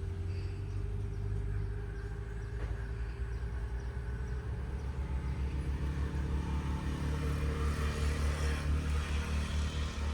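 Low rumble of a motor engine running, growing somewhat louder in the second half.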